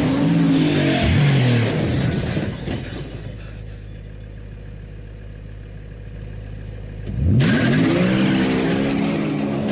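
Car engine revving hard, its pitch climbing and dropping as it accelerates. It settles to a quieter, steady low drone for a few seconds, then revs up again about seven seconds in.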